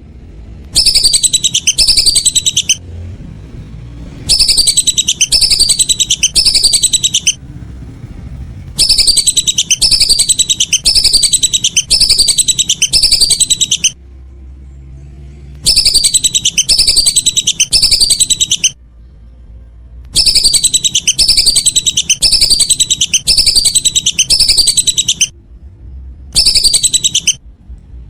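Lesser whistling duck (belibis) calling: loud bouts of rapid, high whistled notes, each phrase falling in pitch, repeated two to five times before a short pause, over and over.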